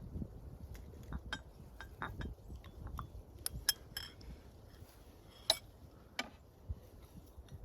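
Tableware being handled: a string of light clicks and clinks of cups, dishes and utensils, with the sharpest clink about five and a half seconds in.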